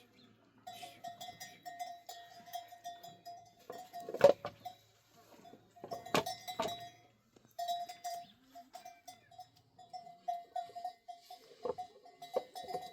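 Livestock bells on goats or sheep clanking over and over as the animals move, with a few sharper, louder knocks; the loudest comes about four seconds in.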